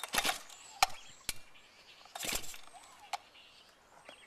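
Chainsaw's recoil starter cord pulled twice, each pull a short rasping whir, with a few sharp clicks between. The new saw's engine has not yet fired.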